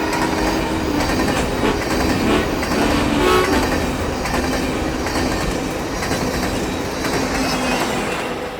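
Union Pacific 4014 Big Boy steam locomotive and train running past with heavy rumble and rail clatter. Steady horn-like tones start and stop a few times over the first few seconds, and the sound fades slowly toward the end.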